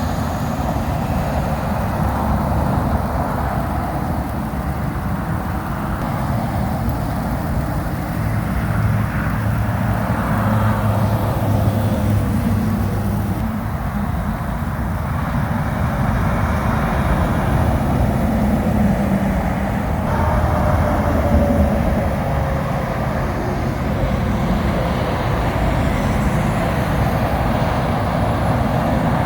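Diesel tractor-trailer trucks and other traffic passing on a wet highway: a steady rumble of engines under a hiss of tyres on rain-soaked pavement. The engine drone swells as trucks go by.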